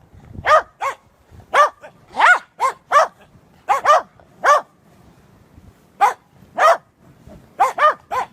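A dog barking repeatedly in short, high-pitched barks, in uneven runs with a pause of about a second midway.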